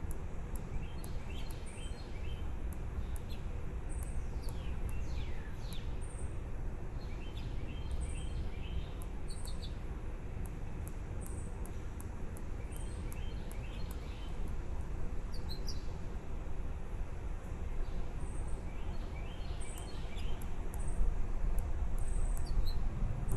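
Small birds chirping: clusters of quick high chirps and short falling notes every few seconds, with very high short peeps repeating about once a second, over a steady low rumble.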